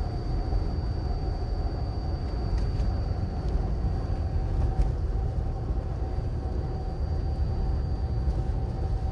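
Steady road noise of a car driving on a snow-covered road, heard from inside the cabin: a continuous low rumble of tyres and engine, with a faint steady whine.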